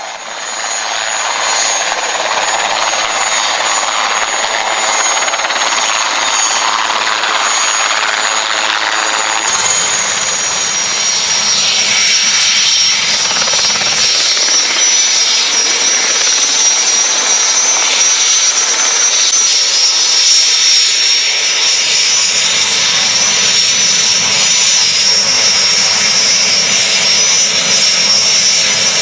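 Helicopter turbine engines running loud over a dense rush of rotor and engine noise, with a high whine that drops slightly in pitch about ten seconds in.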